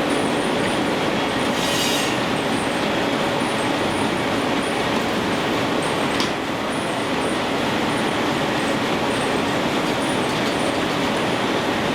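Steady mechanical din of a steam-powered sawmill at work, with faint short high squeaks recurring throughout.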